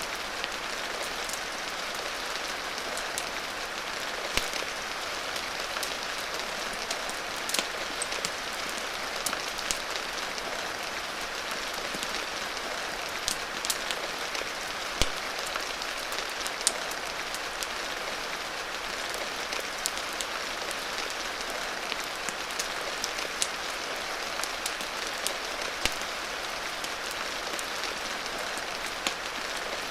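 Steady rain mixed with a crackling wood fire: an even hiss with scattered sharp pops at irregular moments.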